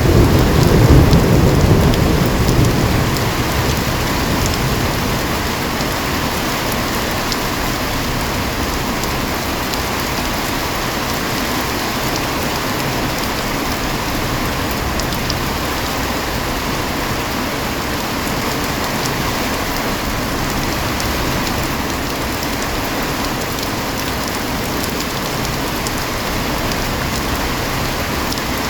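Heavy rain falling steadily, with a low rumble of thunder in the first few seconds that fades away.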